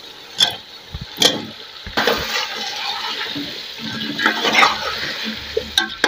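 Potatoes sizzling in oil and fried masala in a metal pot, with a metal ladle clinking and scraping against the pot as they are stirred. There are a few sharp knocks in the first two seconds, then a steady sizzle.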